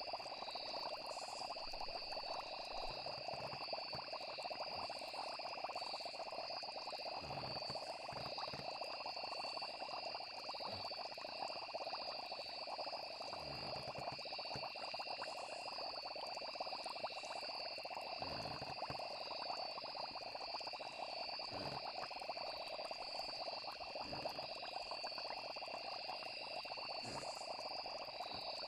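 Night nature ambience: crickets trilling steadily, with a few short low frog croaks scattered through it.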